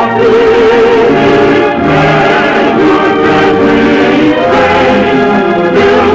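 Orchestra with a choir singing long, wavering held notes: the musical opening of an act of an operetta on an early-1950s radio broadcast.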